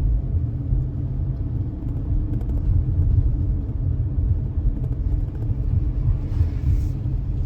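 Steady low road and engine rumble of a car being driven, heard from inside the cabin. A brief rush of higher noise comes near the end.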